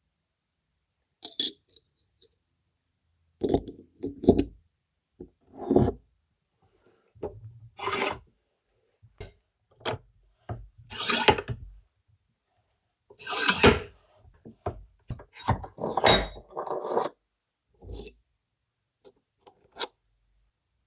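Workshop handling sounds: a dozen or so separate short knocks, clinks and scrapes of tools and parts, with silent gaps between them.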